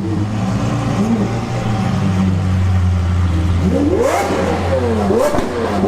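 Exotic sports car engine idling with a steady low note, then revved in several quick blips starting a little past halfway, the pitch rising and falling with each rev.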